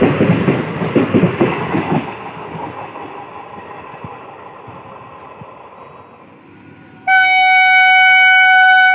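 EMU local train's wheels clattering over the rails as it pulls out, fading away over a few seconds. About seven seconds in, an arriving ICF-built EMU sounds its horn: one steady note lasting about two seconds.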